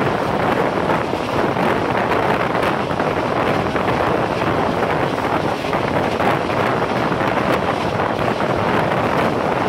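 Steady rush of wind buffeting the microphone held out of a window of a moving passenger train, mixed with the running noise of the coaches' wheels on the track at speed.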